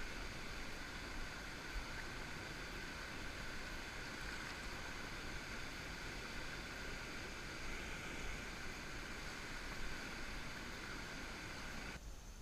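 Steady rush of river water, muffled by a waterproof action-camera housing; it cuts off abruptly near the end.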